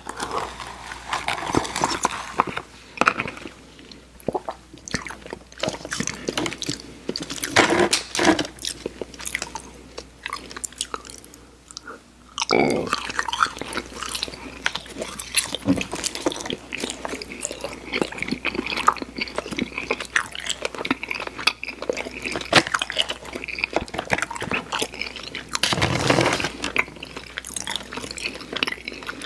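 Mouth chewing chewy Airheads Xtremes sour candy: a steady run of short wet clicks and smacks, sparser at first and denser from about halfway through.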